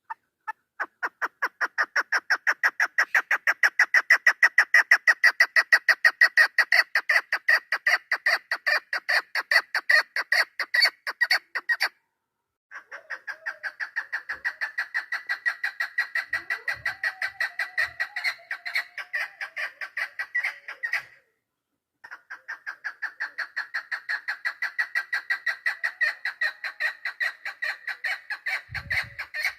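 Female chukar partridge calling, the call used to lure chukars in hunting: long runs of rapid, evenly spaced clucking notes, cut by two brief silences. A couple of faint low thumps sound in the second half.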